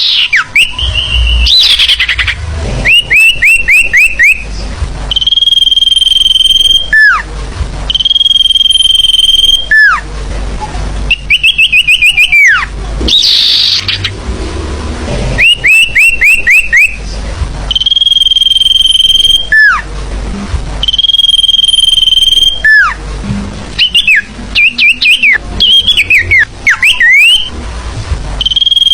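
Bird-lure recording of forest birds calling, played loud. Long held whistles, each ending in a quick falling note, alternate with fast runs of four or five short rising chirps, and the calls tangle together a little past the middle.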